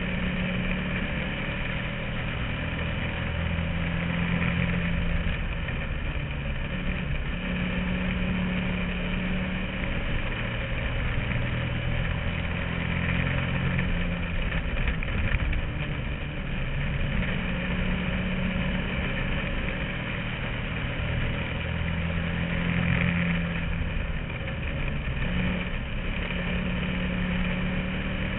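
Bando race car engine heard from inside the car at racing speed. Its pitch rises and falls every few seconds as the driver accelerates and lifts.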